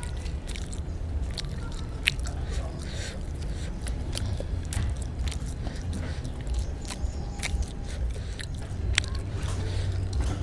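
Close-up chewing and mouth noises of a person eating a spicy bakso meatball: a string of irregular sharp clicks, with a steady low rumble underneath.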